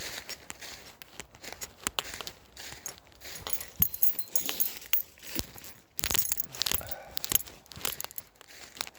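Bunch of keys jangling and clinking in quick, irregular jingles, busiest in the second half.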